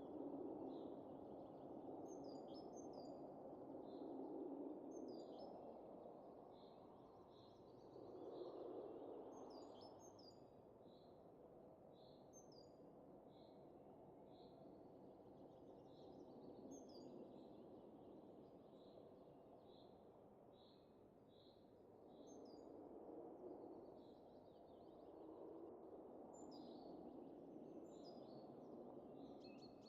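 Faint, soft wind rising and falling in slow gusts, with small birds chirping short notes over and over.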